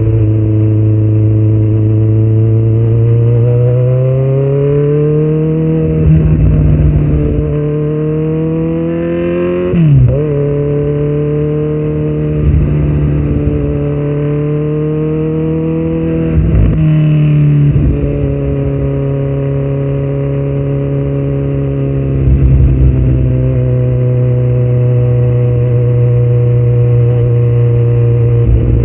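2018 Kawasaki Z900's inline-four engine, breathing through Delkevic headers and a Yoshimura muffler with no dB killer, running under way. The revs climb a few seconds in, drop sharply twice around the middle, then settle to a steady pitch.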